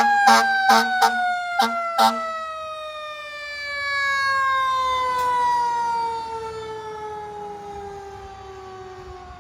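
Fire truck siren winding down in one long, slow falling wail, cut through early by a quick series of short air horn blasts. A truck engine rumble swells and fades about four to six seconds in.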